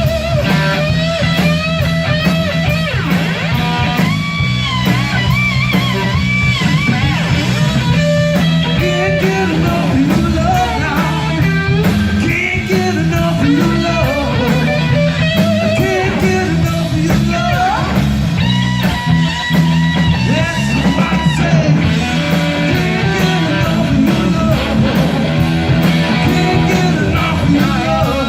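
A live rock band with bass and drums, led by a 1960 Gibson Les Paul Standard electric guitar playing lead lines with string bends.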